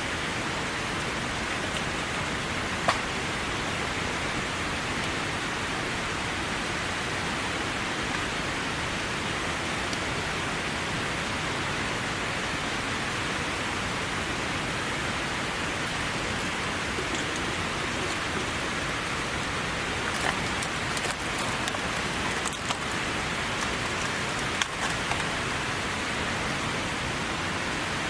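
Steady heavy rain falling, with a few sharp drop ticks and small knocks in the second half.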